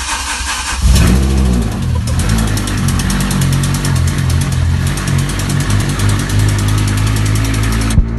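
BMW S85 V10 engine being cranked by the starter, catching and firing about a second in, then running at a steady idle on its first start. A fast, regular slapping runs through the idle, which the owner puts down to a loose exhaust manifold.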